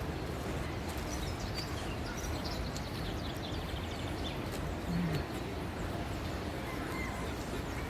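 Outdoor ambience: small birds chirping over a steady low rumble, with one brief low sound about five seconds in.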